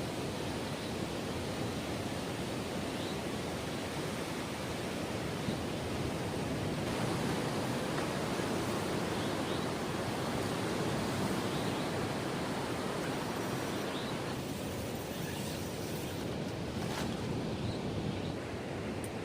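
Steady rushing wash of sea waves breaking on a beach, with no clear individual breaks.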